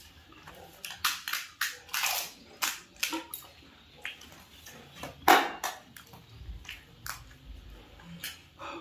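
Pani puri being eaten up close: crisp puri shells crunching between the teeth with wet, slurpy mouth sounds from the spiced water, in an irregular run of sharp crunches, the loudest about five seconds in.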